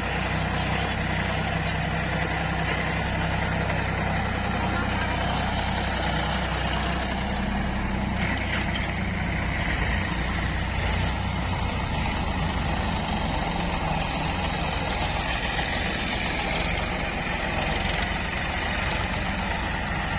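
Diesel engine of heavy machinery running, steady at first, then changing to a rougher, faster-pulsing note about halfway through.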